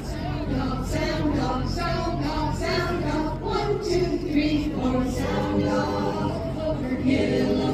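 A choir singing, with a steady low hum underneath.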